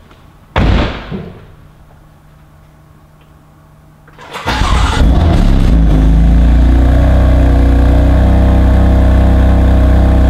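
A short, loud sound that falls in pitch, then a few seconds later the BMW M4's twin-turbo straight-six cranks and fires with a loud burst, settling into a steady, loud idle.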